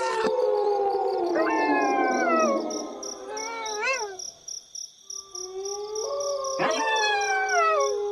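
Several wolves howling together, their long howls overlapping at different pitches, most sliding slowly downward and one short howl rising and falling. The howling drops away briefly a little past the middle, then new howls start up again.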